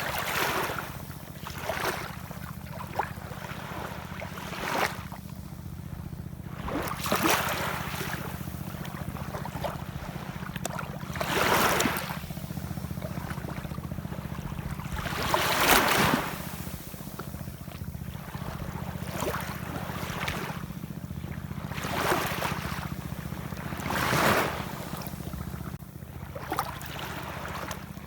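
Ocean waves washing in, in surges every few seconds, the strongest about twelve, sixteen and twenty-four seconds in, over a steady low rumble.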